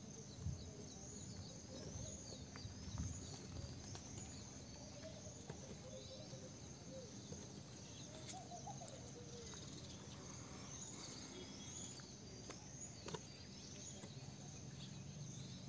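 Faint street ambience with a bird calling repeatedly in the background: short, high, upward-curving notes repeated about once a second, in two bouts, one early and one late, with a few soft knocks in between.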